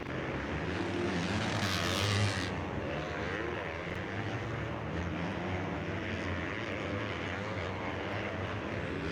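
Motocross bike engines revving up and down as they race around the track, their pitch rising and falling with each throttle change. A louder, rasping surge comes about two seconds in.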